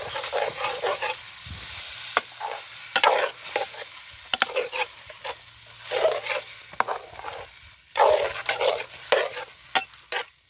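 Chicken pieces frying and sizzling in oil in a metal pot, stirred and turned with a metal slotted spatula that scrapes and clinks against the pot several times.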